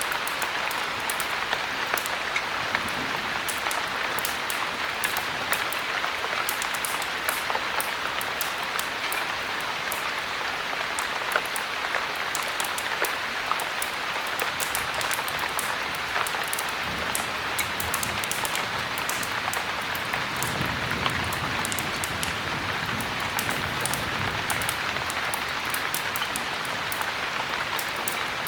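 Heavy rain falling steadily, with frequent sharp high clicks over the wash.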